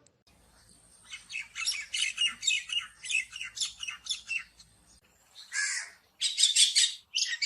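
Common myna calling: a rapid run of short calls, about three a second, then after a brief break about five seconds in, a louder bout of calls.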